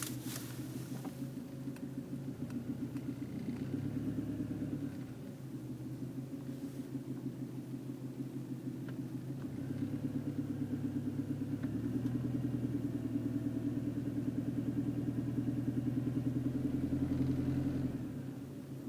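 1995 Honda Civic's D16Z6 1.6-litre four-cylinder engine running with a steady, even knock that keeps pace with engine speed, getting louder for a stretch and then settling back near the end. The owner suspects the knock comes from a rod bearing or wrist pin.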